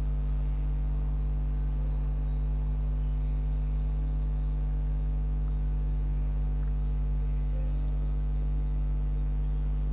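Steady electrical mains hum at about 50 Hz with a stack of overtones, unchanging throughout.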